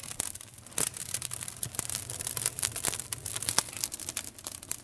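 Wood campfire crackling: fast, irregular snaps with a few louder pops, the loudest a little under a second in and again about three and a half seconds in.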